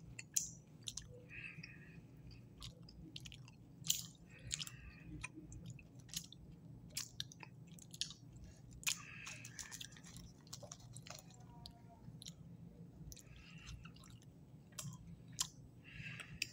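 A person quietly chewing soft, sugar-coated sour gummy candy (Sour Patch Kids), with scattered wet mouth clicks.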